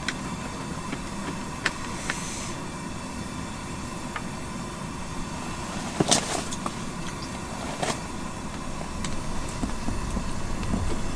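Steady low rumble of background noise with a few light clicks and clinks, like utensils tapping cookware; a sharper clatter comes about six seconds in and another near eight seconds.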